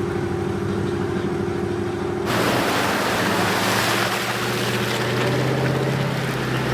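A vehicle engine runs steadily. About two seconds in, a loud, even rushing noise starts suddenly and continues over it.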